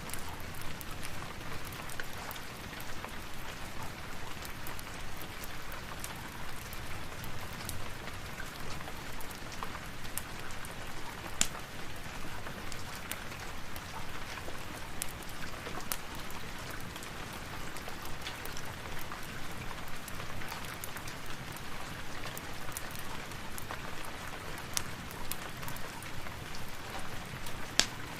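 Steady rain falling, with scattered sharp ticks through it and two louder pops, one about eleven seconds in and one near the end.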